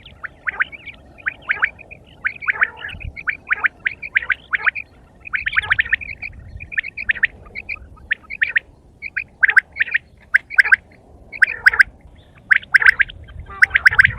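Quail calling: a long, irregular run of short, sharp chirping calls, one after another in quick succession.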